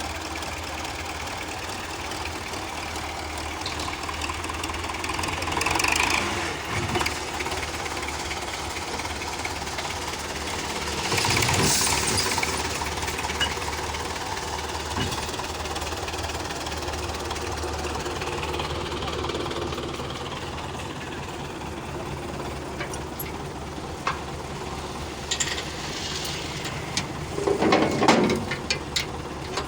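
Tractor diesel engine running steadily under load, with louder swells about six and twelve seconds in and a burst of sharper, louder noise near the end.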